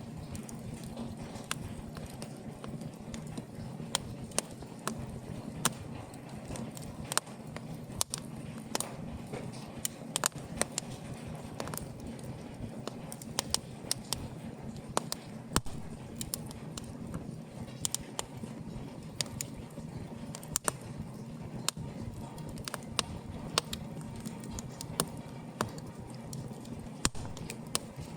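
Fire in an open fireplace crackling, with irregular sharp pops and snaps, several a second, over a steady low rush of burning.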